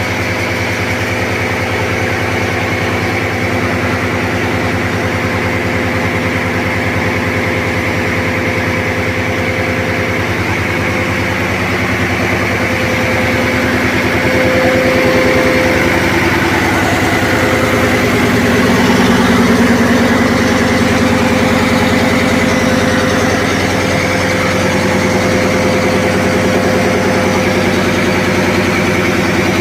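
Diesel engines running in a ship's engine room: a loud, steady mechanical drone, a little louder around the middle.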